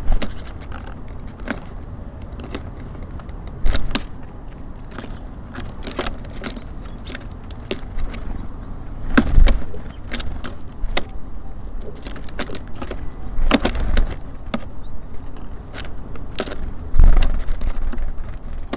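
Small birds pecking and hopping at a bird feeder: irregular taps and clicks, with heavier thumps about 4, 9, 14 and 17 seconds in.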